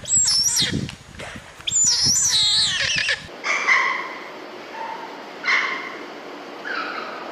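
High-pitched animal calls: several loud wavering cries in the first three seconds, then fainter, shorter calls over a different background.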